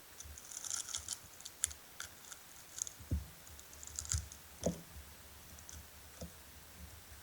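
Irregular crackling and crunching clicks as the shell of a giant water bug is chewed and broken apart close to the mouth, with a few soft low thumps in the second half.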